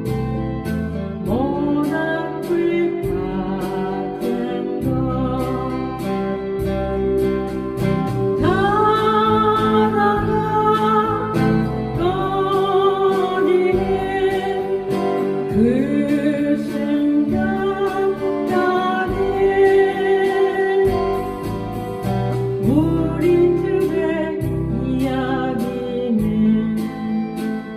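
A solo voice singing a Korean folk song to strummed acoustic guitar.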